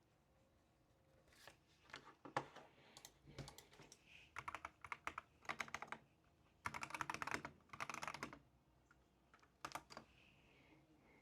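Computer keyboard typing: several bursts of rapid key clicks separated by short pauses, the longest run a little past the middle.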